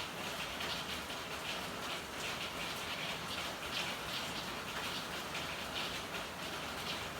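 Steady rain falling in an alley, with dense drops and patter on hard surfaces.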